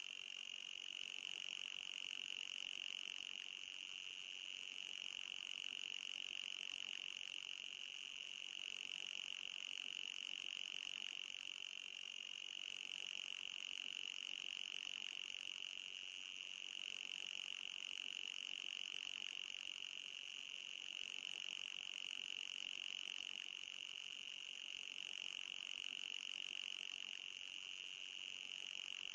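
Anti-mosquito repellent sound effect: a steady high-pitched whine with a fainter, still higher layer above it, dipping slightly in loudness about every four seconds as it loops.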